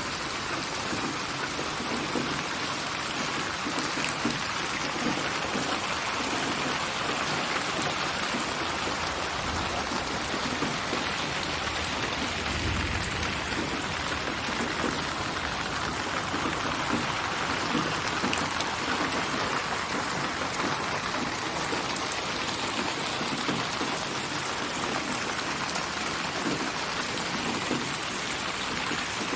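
Steady rain falling, an even hiss with a dense patter of drops, and a brief low rumble about twelve seconds in.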